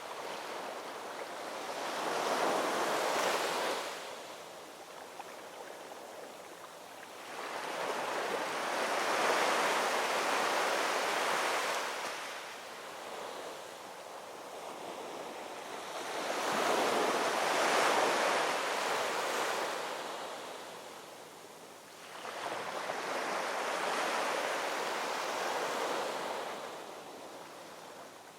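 Ocean waves breaking and washing on a shore, four slow surges in turn, each swelling for a few seconds and then falling back to a softer wash.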